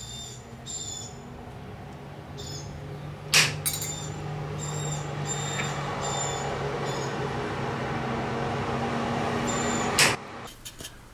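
Pliers nipping the heads off two light-gauge nails: two sharp snaps several seconds apart, over a steady low hum. Short high bird chirps repeat throughout.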